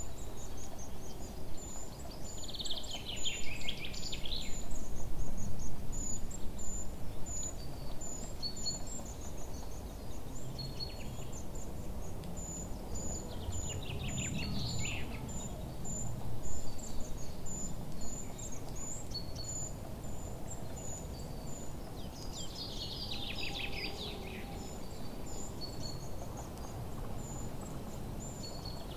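Croquettes frying in oil in a pan, with a bird's quick falling chirps heard three times over the frying.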